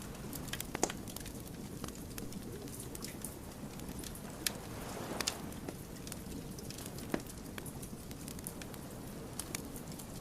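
Burning firewood crackling: irregular sharp pops and snaps over a steady low rush of flame, the loudest pop about a second in.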